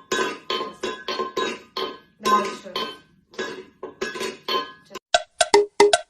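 Repeated clinking strikes with a short ringing tone, about two or three a second, turning into sharper, quicker dings near the end.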